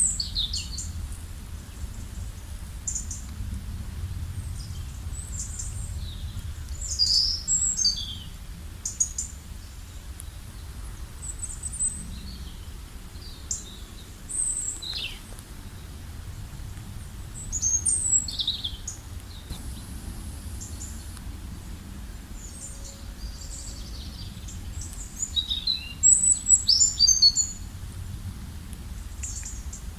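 Several songbirds chirping and calling in short, high phrases, with bursts of busier song about a quarter of the way in, in the middle and near the end, over a steady low rumble.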